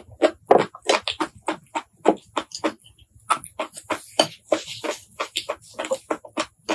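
Close-miked mouth eating sounds: wet chewing smacks and clicks, about three or four a second, with a short break near the middle and a brief airy hiss about two-thirds through.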